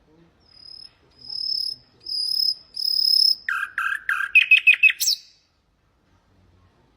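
Common nightingale singing one full phrase: four long, high whistled notes that grow louder, then a run of quick lower notes that speeds into a rapid trill and ends on an upward-sweeping note.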